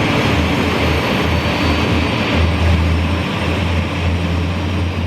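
Embraer Lineage 1000's GE CF34 turbofan engine running during start-up: a steady, loud rushing noise with a low hum beneath it, cut off abruptly at the end.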